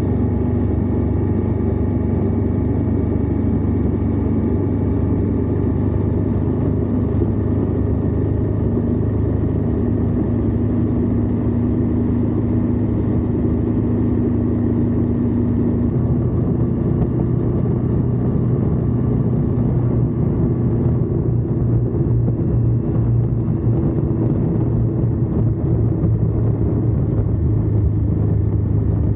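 Indian Scout motorcycle's V-twin engine running steadily on the road, heard close up from the lower crash bar, with the engine note shifting to a different pitch about halfway through.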